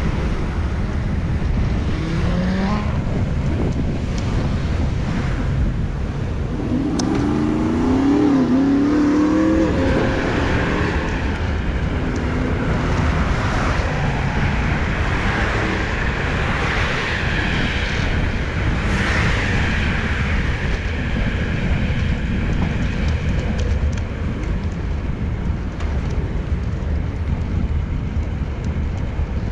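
Road traffic passing a moving bicycle, over a steady low rumble of wind on the microphone. About seven seconds in, a passing vehicle's engine note wavers up and down for a few seconds, followed by the rising and falling rush of further cars going by.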